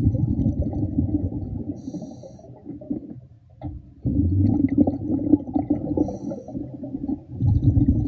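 A scuba diver's exhaled air bubbling out of the regulator, heard underwater as a low rumbling gurgle. Two long exhalations are separated by a short break about three seconds in, with brief hisses of breathing in between.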